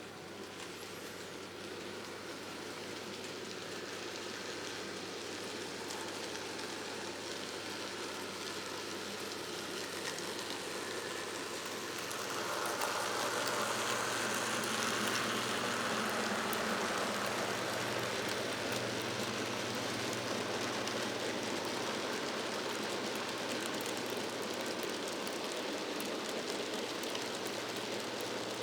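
An N gauge model train of a Class 56 locomotive and empty MGR hopper wagons running along the track, a steady rattling patter of small wheels over the rails with a low motor hum. It grows louder and is loudest about halfway through as the train passes close.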